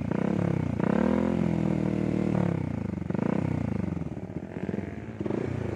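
Motorcycle engine revved in several throttle blips through an RCB three-sound adjustable racing exhaust, the pitch climbing and dropping back each time.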